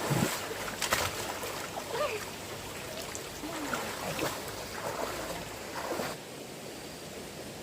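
Water splashing and sloshing, with sharp knocks and a few short voice-like calls. About six seconds in, it drops suddenly to a quieter steady hiss.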